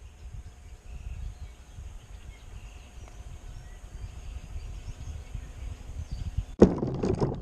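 Low rumbling wind noise on the microphone. About six and a half seconds in, a sudden loud knock, followed by a quick run of rattling, clattering knocks.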